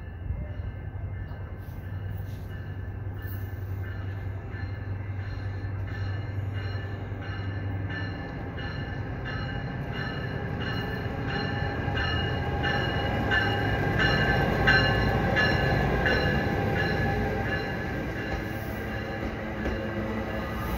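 Commuter train, an ALP45DP locomotive hauling Bombardier multilevel coaches, rolling slowly past. A low steady hum gives way after about eight seconds to a growing rumble of wheels on rail, loudest about two-thirds through, with a regular ticking above it.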